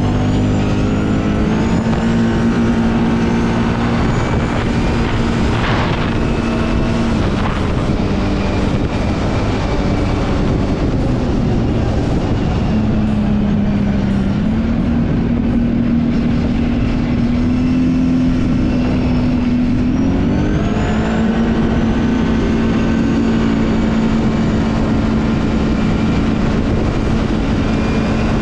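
Kawasaki Brute Force 750 ATV's V-twin engine running under way. Its pitch holds steady for stretches, then dips and rises several times as the throttle changes, climbing noticeably near the two-thirds mark.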